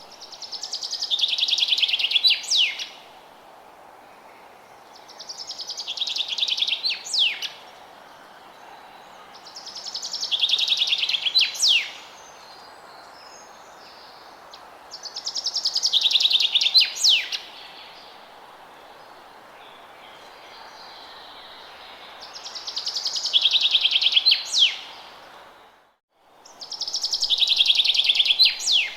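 A forest songbird singing the same song phrase six times, a few seconds apart: each is a rapid trill that falls in pitch and ends in a quick flourish. A steady hiss of ambient noise lies underneath and drops out for a moment just before the last phrase.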